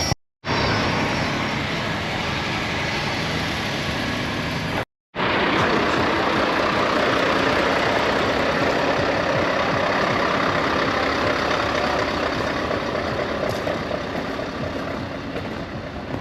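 Heavy truck running, a steady dense noise, broken twice by a sudden moment of total silence: just after the start and about five seconds in.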